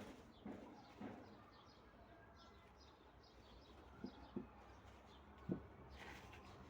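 Near silence with faint bird chirps and a few soft knocks.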